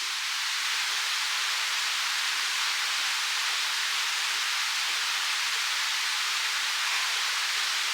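Steady, even rushing hiss with no low rumble and no distinct events.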